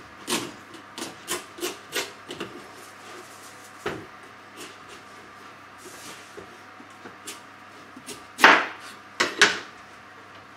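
Large kitchen knife cutting through the firm rind of a carved pumpkin: a quick run of short, crisp strokes in the first couple of seconds, a single knock about four seconds in, then two louder strokes near the end.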